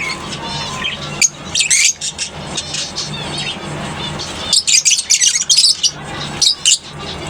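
A colony of lovebirds chattering, with many short, shrill chirps and squeaky calls overlapping, coming in louder flurries about a second in, around the middle and near the end.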